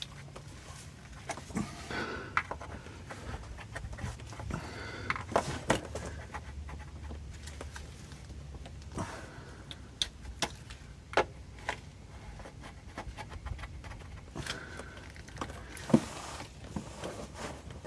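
Scattered clicks and knocks of hand tools on metal as a part is refitted and tightened under a van, with a person breathing hard.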